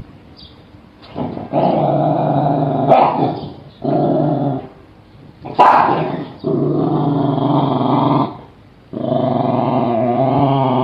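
A dog growling in about five long bouts of one to three seconds each, with short pauses between, and a sharper, louder outburst a little past halfway.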